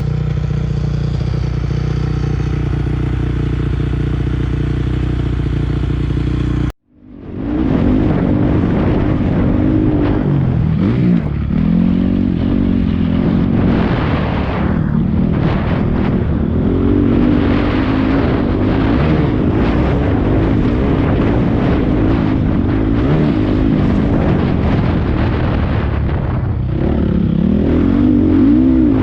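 Four-stroke 450 motocross dirt bike engine. It runs at a steady pitch for about seven seconds, then after an abrupt cut it is ridden hard, its pitch rising and falling with the throttle and gear changes.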